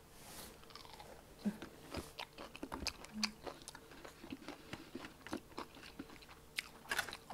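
Close-miked chewing and biting of boneless garlic parmesan chicken wings, with scattered soft clicks and rustles of a plastic fork picking at food in a paper-lined foam tray.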